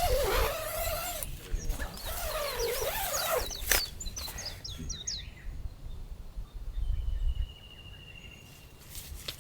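Wild birds calling: a quick run of high, falling chirps about four seconds in, then one long steady whistle, over a low rumble. Before them come wavering lower calls and a single sharp click.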